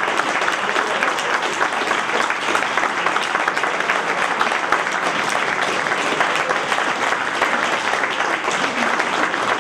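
Sustained applause from a room full of people clapping steadily, with a few voices mixed in.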